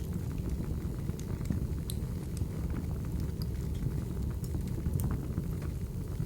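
Firewood burning, crackling: irregular sharp pops and snaps over a steady low rumble of the fire.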